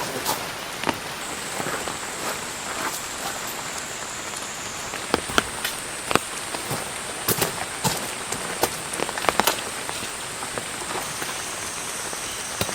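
Rain falling steadily, with many irregular sharp drop impacts.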